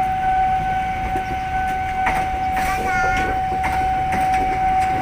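A train running at the station: a steady low rumble under a constant high-pitched whine, with a few short wavering tones about halfway through.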